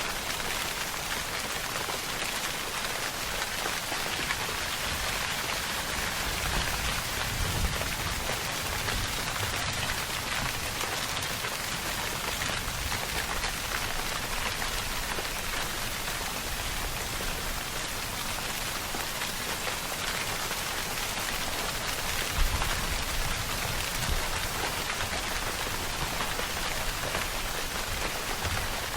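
Steady rain, a dense, even hiss of falling drops. A low rumble swells about a quarter of the way in, and a sharper low thump comes about three quarters through.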